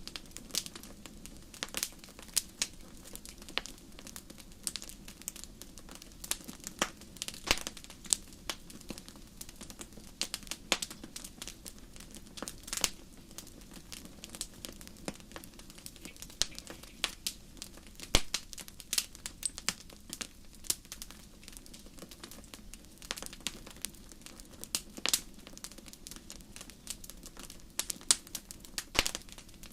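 Wood fire crackling, with irregular sharp pops and snaps scattered over a steady low hiss of the flames.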